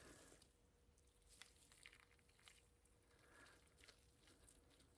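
Near silence, with two faint clicks from bicycle wheel bearings and parts being handled while grease is packed into them by hand.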